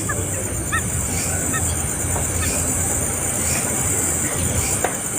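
A few short, high chirps from a bird over a steady high-pitched buzz and a low rumble.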